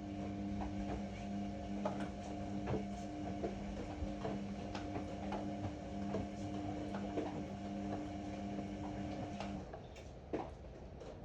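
Ariston AML125 washer-dryer running with a steady hum of several pitches, broken by brief gaps, over scattered light clicks and knocks. The hum stops about nine and a half seconds in.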